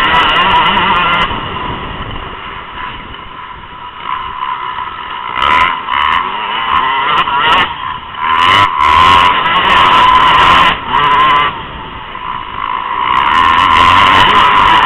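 Motocross bike engines revving hard and easing off in a high-pitched whine that rises and falls. It drops quieter for a few seconds early on, surges back, and runs loud again near the end.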